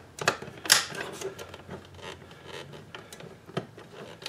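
Fine hand screwdriver backing tiny screws out of a car's plastic climate-control panel housing. It makes irregular sharp clicks and light scrapes of the tool against the screws and plastic, with one louder click less than a second in.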